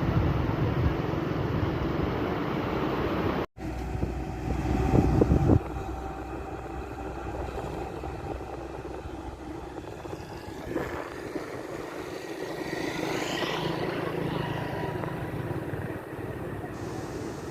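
Road traffic on a bridge: vehicles passing, with the sound cutting out briefly early on, and one vehicle's engine rising in pitch about two-thirds of the way through.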